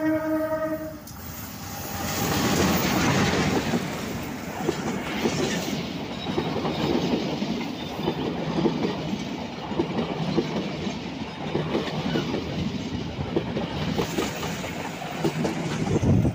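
Train horn on a diesel locomotive sounding briefly at the start, then the locomotive passing close with its engine running, followed by a string of parcel wagons rolling by with wheels clacking rapidly over the rail joints.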